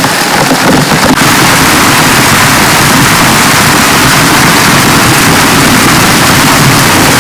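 Heavy rain beating steadily on a small tent: a loud, dense hiss of close drops.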